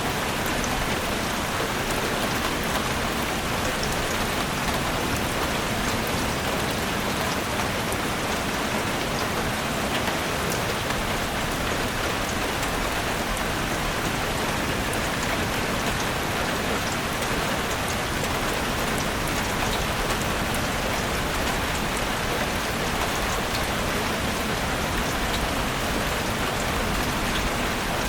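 Steady rain falling in a forest, an even hiss with scattered drops ticking on leaves.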